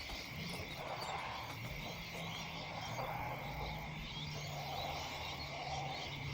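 Outdoor ambience with a soft animal call repeating about every second and a half, over a steady hiss and low hum.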